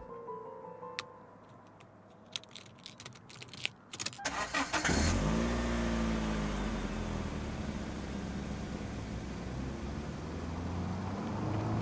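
A few clicks and rattles, then a car engine starts about five seconds in: its pitch rises as it catches, settles, and it keeps running steadily, growing a little louder near the end.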